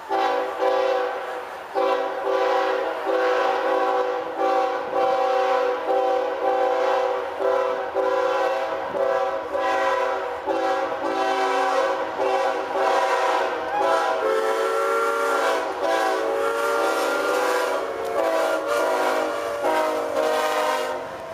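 Santa Fe 3751's steam chime whistle blowing a long series of blasts, a full multi-note chord broken by short gaps. In the second half the pitch shifts and wavers as the whistle is worked open and closed.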